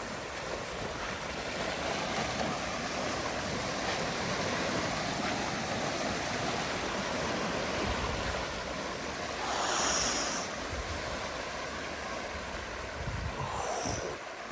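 Water rushing steadily through a breach in a beaver dam, a strong current flowing out of the dammed-up flood, swelling briefly about two-thirds of the way through.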